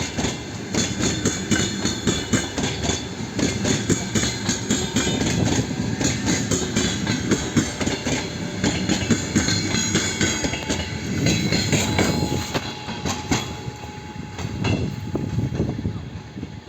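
A passenger train rolling past, its wheels clicking rapidly over the rail joints over a steady rumble; the clatter eases and grows quieter over the last few seconds.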